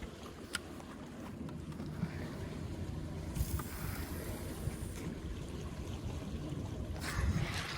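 Small fishing boat's engine running steadily as a low rumble, with wind and water noise over it that grows louder near the end.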